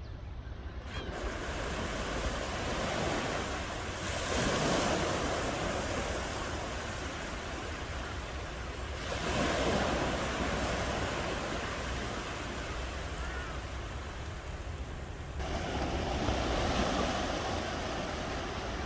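Ocean waves breaking on a shore over a steady low rumble of surf. Three waves surge in, about every five or six seconds, each swelling and washing back out.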